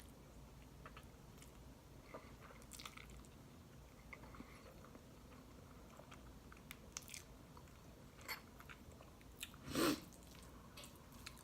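Close-miked eating: a person biting and chewing a mouthful of spaghetti and bread, with small wet clicks and faint crunches, and one louder short noise about ten seconds in.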